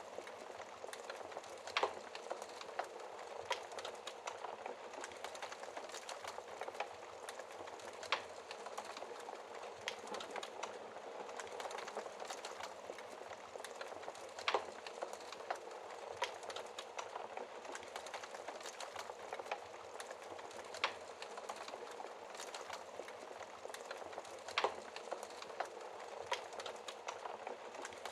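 Wood fire burning in a fireplace behind a glass screen: a steady soft crackle and hiss, with sharp pops every few seconds.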